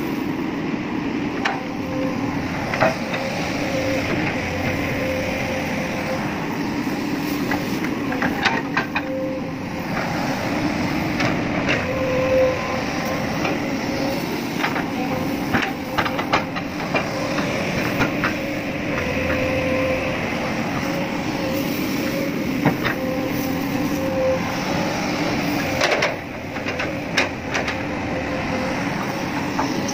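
Excavator engine running steadily, with scattered sharp metallic clanks and rattles.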